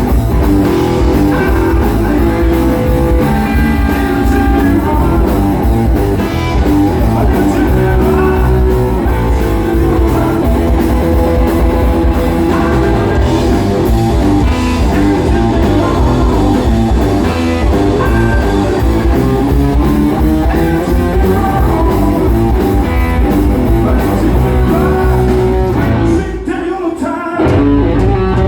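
Live blues-rock band playing a slow blues, with guitar out front. The band drops away briefly near the end.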